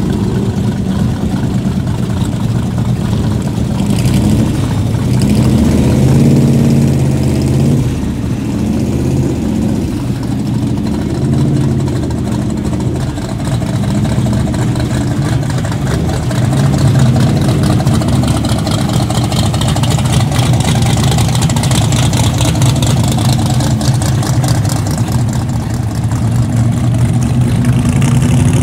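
Classic Corvette restomods driving slowly past one after another, their V8 engines running at low speed with a deep exhaust note that rises and falls with light throttle.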